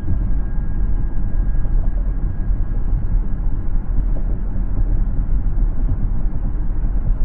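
Steady low road rumble of a car driving: tyre and engine noise with a faint, thin, steady whine above it.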